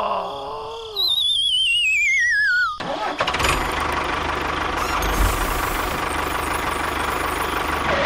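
A warbling whistle that slides steadily downward for about two seconds, cartoon-effect style, then a steady engine-like mechanical running noise with a low rumble for the rest.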